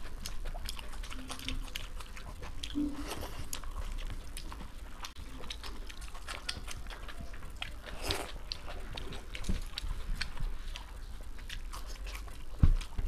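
Close-miked eating by hand: two people chewing, biting and lip-smacking mouthfuls of vegetable pulao and boiled egg, with many small wet clicks. A single low thump near the end is the loudest sound.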